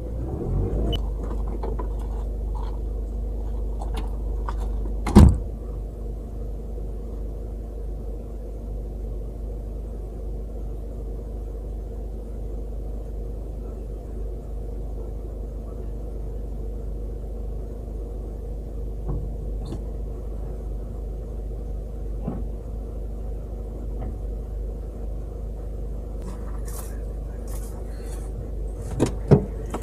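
Car engine idling steadily, heard from inside the cabin. A single sharp knock about five seconds in and a couple of clicks near the end.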